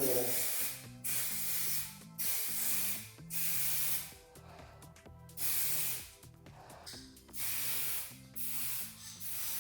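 Aerosol rattle can of 2K clear coat spraying in short bursts of under a second each, one pass after another, seven or eight in all.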